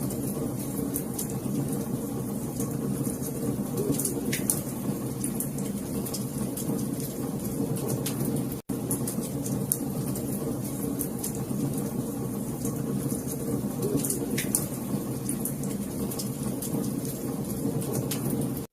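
Wood fire crackling, with frequent sharp pops over a steady low rush of burning. The sound cuts out for an instant about nine seconds in.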